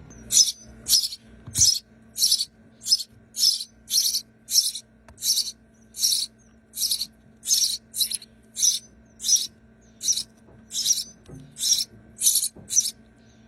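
Hand-reared nestling birds begging with a rapid, even series of short, high-pitched calls, about two a second, while being fed.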